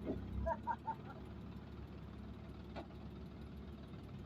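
An engine idling steadily in the background, with a few brief distant voices in the first second.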